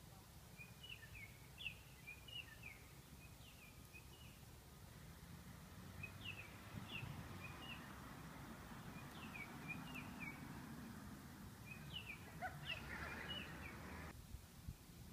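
A faint songbird singing short phrases of quick rising and falling chirps, repeated about every three seconds. Under it, a steady hiss swells midway and cuts off suddenly near the end.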